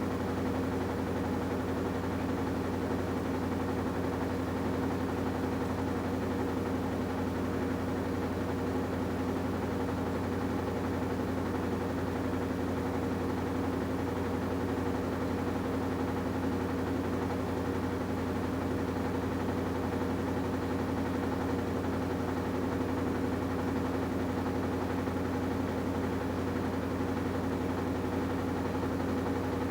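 AQUA washing machine with a direct-drive inverter motor, its drum turning at a steady speed late in the cycle, likely the final spin. It gives a constant hum with a steady whir over it that does not change in pitch or level.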